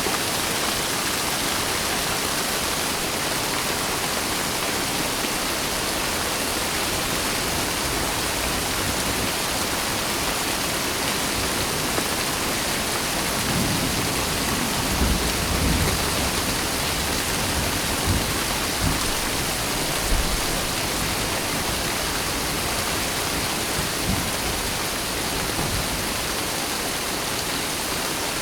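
Steady rain, with a few low rumbles of thunder about halfway through and a fainter one near the end.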